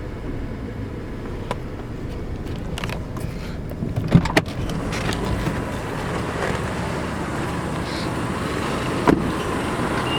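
Nissan Pathfinder 2.5 dCi turbo diesel engine idling, heard from inside the cabin, with scattered clicks and a few louder knocks about four seconds in and again near the end.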